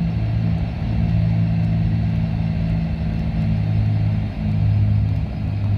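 Cessna 310's twin piston engines running at low power with a steady low drone and rumble during the landing and rollout; the loudness dips briefly about four seconds in.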